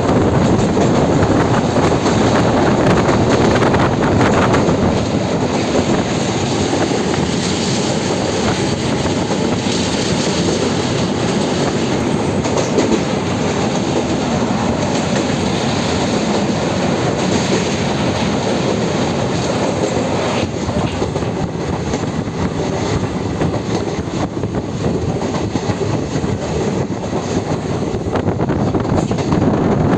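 A moving train: steady, loud noise of its wheels and carriages running on the rails, easing a little after about twenty seconds and building again near the end.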